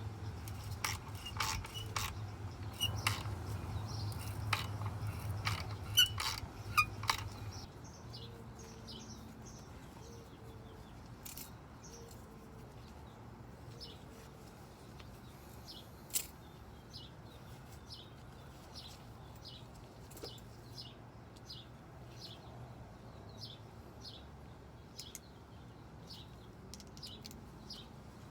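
Light metallic clicks and clinks of tools and exhaust parts over a low steady hum, which stops suddenly about seven seconds in. Scattered short, high ticks follow.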